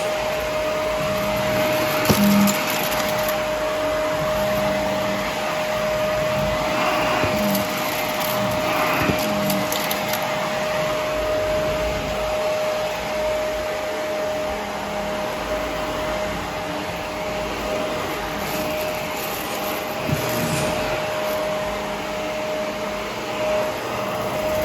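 Vacuum cleaner running steadily with a constant motor whine, with scattered crackles and clicks as debris is picked up.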